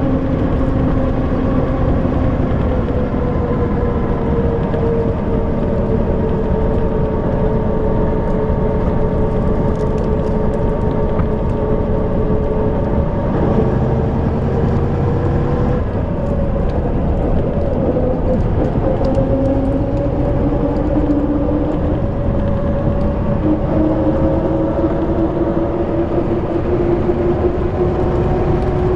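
YaMZ diesel engine of an Ikarus-250.95 coach running under way, a steady drone whose pitch slowly sinks over the first half, breaks about halfway through, then rises steadily as the bus accelerates.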